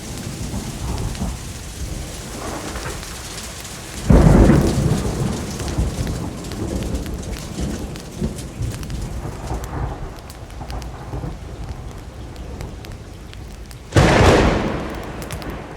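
Steady rain with a thunderstorm: two sudden claps of thunder, one about four seconds in and one near the end, each rolling off over a second or two.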